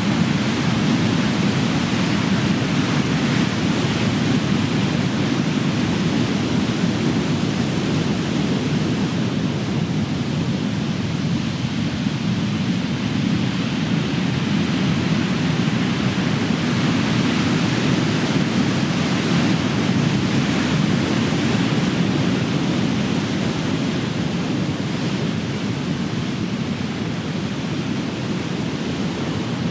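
Ocean surf: big waves breaking and washing ashore in a continuous low rumble of white water, swelling and easing slowly.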